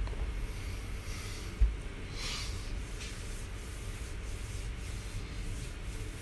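Faint rubbing and rustling noise over a low rumble, with one soft low thump about one and a half seconds in.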